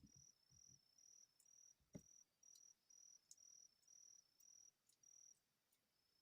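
Faint insect chirping: a high, thin trill repeating in short pulses about twice a second, then stopping near the end. A single sharp click about two seconds in.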